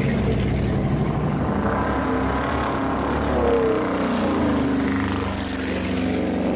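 A motor vehicle engine running and revving, its pitch rising and falling.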